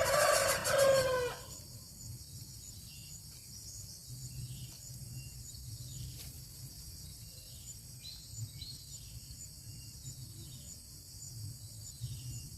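A loud, drawn-out bird call lasting about a second and a half at the start. After it come scattered faint, short high chirps over a low background rumble.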